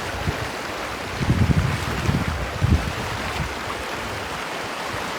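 River water rushing steadily, with low rumbling bumps of wind or handling on the microphone between about one and three seconds in.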